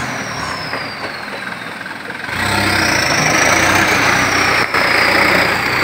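Truck engine running, rising in level about two seconds in and holding there, with a faint high whine that rises and slowly falls.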